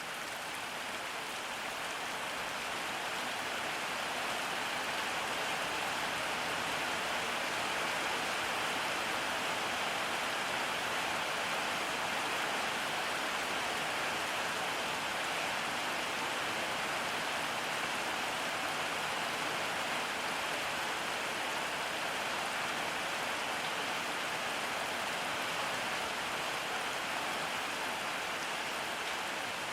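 Steady rain falling, an even hiss of drops that swells a little over the first few seconds and then holds.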